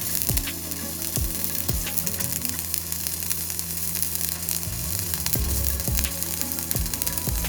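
Stick (shielded metal arc) welding: the electrode's arc crackling and sizzling steadily, with a low hum underneath.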